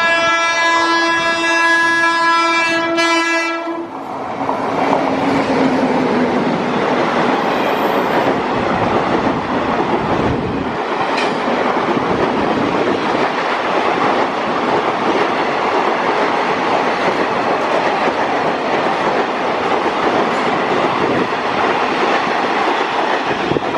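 WAP-7 electric locomotive's horn sounding one long steady note as it approaches at speed, ending about four seconds in as the locomotive passes, with a brief lower note just after. Then the continuous rushing noise of the express's passenger coaches going by at speed.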